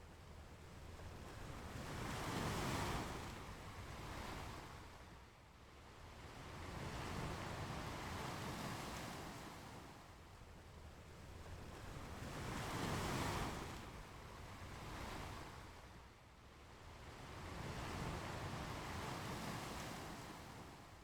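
Ocean surf washing onto a beach, the noise swelling and fading as each wave breaks, about every five seconds.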